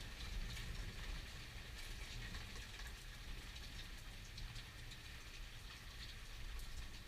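Steady rain falling in a thunderstorm, with scattered sharp drop ticks over a low, continuous rumble that eases off slightly.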